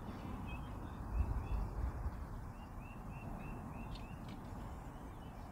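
A bird calling a run of short, evenly spaced chirps, about four a second, over low wind rumble on the microphone.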